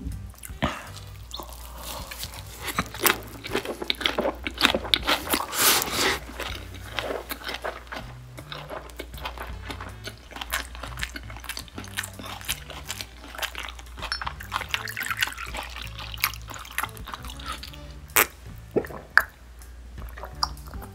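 Close-miked chewing of a perilla-leaf wrap of raw seafood: wet crunching, squishing and smacking, densest in the first few seconds. Soft background music with a steady low bass line plays underneath.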